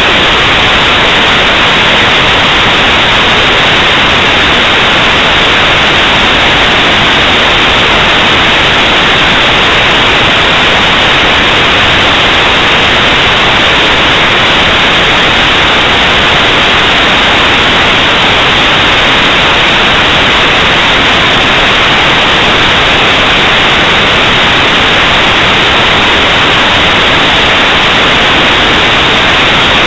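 Loud, steady static hiss that never changes, strongest in the lower and middle range and cut off sharply above.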